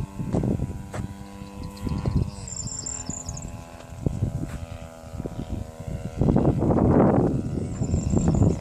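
EME 35cc two-stroke gas engine of a large RC aerobatic plane running steadily, its pitch stepping down about two seconds in. Wind buffets the microphone throughout, with the loudest gust from about six seconds in until near the end.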